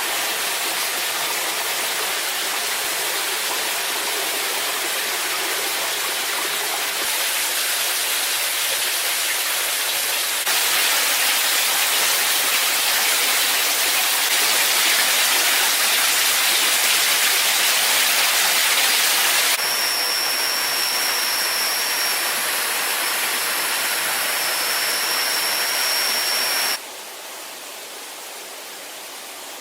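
Steady rushing water from a waterfall or stream. It jumps abruptly in level and brightness several times and drops much quieter near the end. For several seconds past the middle a steady high-pitched whine sits over the water.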